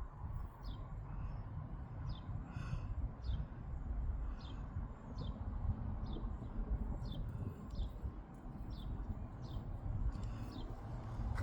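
A bird calling over and over, short falling chirps about one and a half a second, over a low steady rumble.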